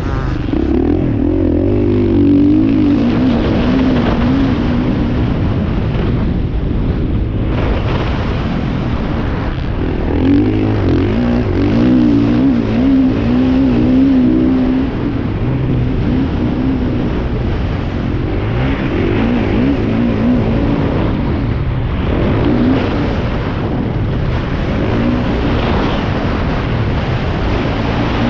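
Motocross bike engines racing, their pitch wobbling up and down as riders work the throttle, in louder stretches a couple of seconds in, around ten to fifteen seconds in, and again around twenty seconds in.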